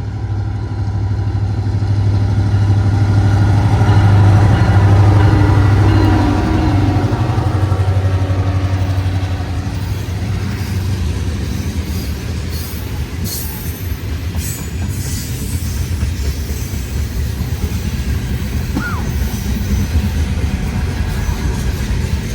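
Freight train passing close by: the diesel locomotives' deep engine drone is loudest about four to five seconds in, then the steady rumble of the juice-train freight cars rolling past.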